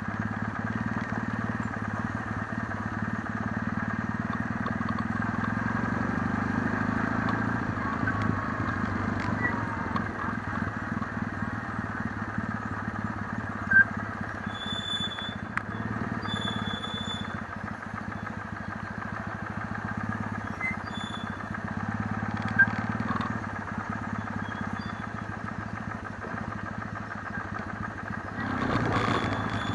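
Kawasaki W650 air-cooled parallel-twin engine running steadily. Two short sharp clicks stand out, about halfway through and again some nine seconds later.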